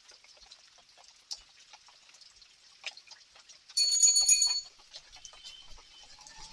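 Rain dripping and pattering as scattered ticks of drops. A little under four seconds in comes a brief, loud, high-pitched ringing tone lasting under a second, much louder than the rain.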